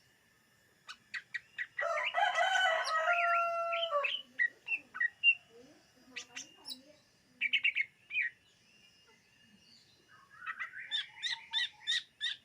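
Greater green leafbird (cucak ijo) singing a varied song: sharp chips, then a loud dense warble with several long held notes about two seconds in, scattered short notes and a quick trill, and near the end a run of evenly repeated notes, about three a second.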